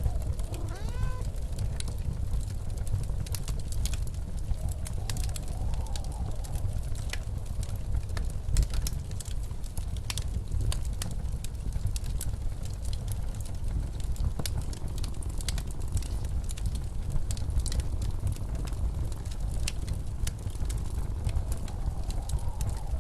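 Blizzard wind rumbling steadily, with a faint howl rising and falling now and then, over a wood fire crackling with scattered sharp pops.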